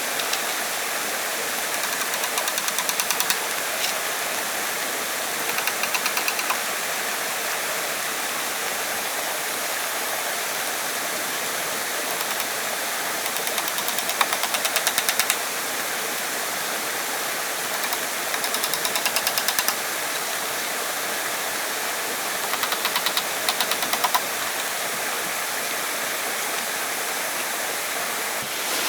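Steady rush of flowing water. Every few seconds it is broken by a burst, about a second long, of rapid ticking.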